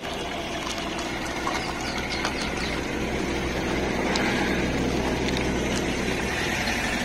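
Hyundai Verna sedan's engine running steadily as the car rolls slowly past at ground level, with scattered light clicks over the hum. The low engine hum ends about six seconds in.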